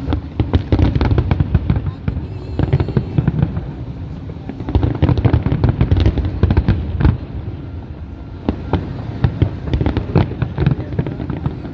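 Fireworks display: rapid, dense cracks and bangs in two heavy volleys, the first at the start and the second about five seconds in, thinning to scattered pops and crackles toward the end.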